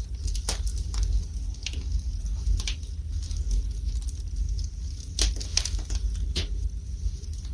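Wood fire burning in a fireplace: the logs crackle and pop in irregular sharp snaps, a few strong ones scattered among fainter ticks, over a low steady rumble.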